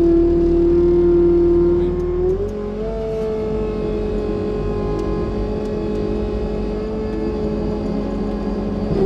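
Skid steer loader's engine running with a steady whine; the pitch steps up about two and a half seconds in and holds at the higher pitch as it drives.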